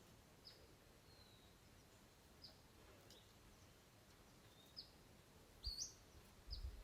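Faint, short bird chirps, about one every second, over a very quiet background, with a low rumble near the end.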